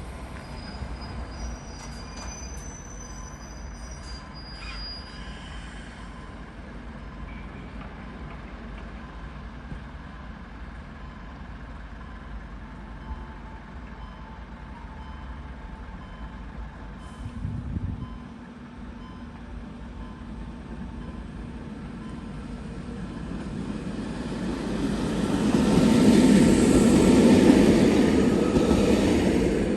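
Trains at a railway station: a high squeal of steel wheels on rail in the first few seconds. A train then draws near, its rumble and hiss growing steadily louder and loudest near the end.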